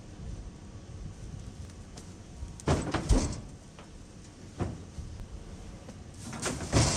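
A few sharp knocks and rattling clatters over a low steady rumble, the loudest pair about three seconds in and another near the end.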